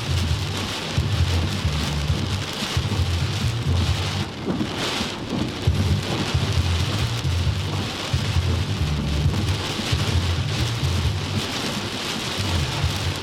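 Heavy rain pouring down in a rainstorm, steady and loud, with a low rumble that comes and goes underneath and a brief surge of harder hiss about four seconds in.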